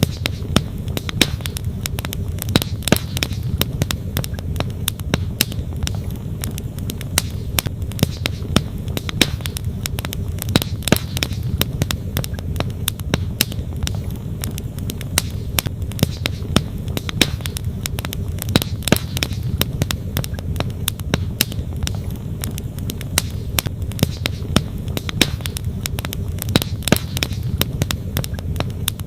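Wood campfire crackling, with frequent sharp irregular pops, over the steady low rush of a flowing stream.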